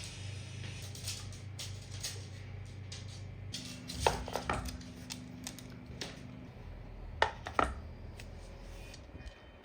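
Household objects being handled: light clicks and clinks, with two pairs of sharper knocks about four and seven seconds in, over a low steady hum.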